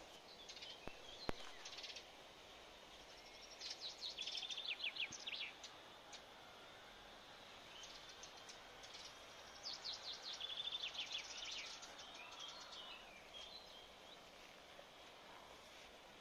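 Birds singing: rapid high chirps and trills, loudest in two bursts about four seconds in and about ten seconds in, over a faint outdoor background. A single sharp click about a second in.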